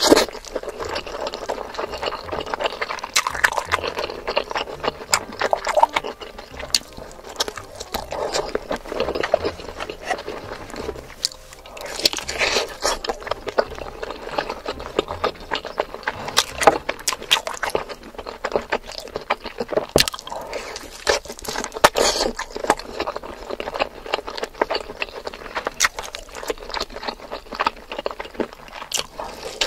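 Close-miked eating sounds: wet chewing, smacking and frequent small crunches as a steamed momo and then a fried chicken drumstick are bitten and chewed. There is a brief lull partway through.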